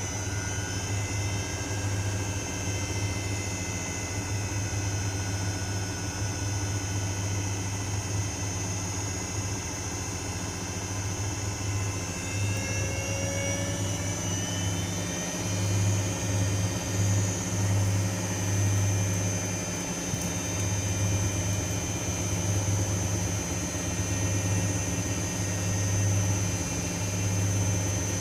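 Privileg Sensation 9245 washing machine spinning: a steady motor whine over a deep hum. About halfway through, the whine climbs in pitch as the drum speeds up, and the hum swells and fades after that.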